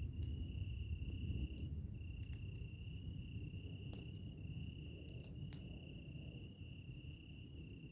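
Crickets trilling steadily in one high, unbroken note over a low rumble. Scattered sharp campfire crackles and pops cut across it, with one loud snap about five and a half seconds in.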